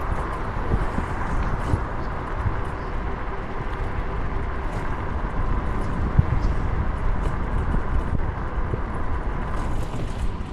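Steady outdoor noise heard while riding along a road: a dense low rumble of wind and road noise, with scattered light clicks and a faint steady tone.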